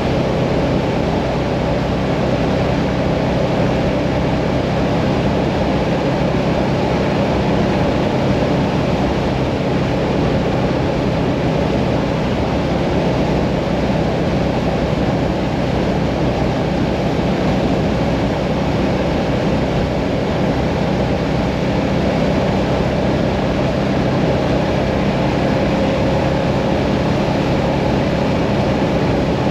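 Mirage 650 motorcycle engine running steadily at cruising speed, under a constant rush of wind and road noise.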